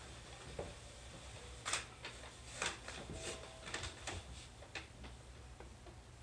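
Electric commuter train standing at a platform: a faint low hum with scattered light clicks and ticks, irregularly spaced.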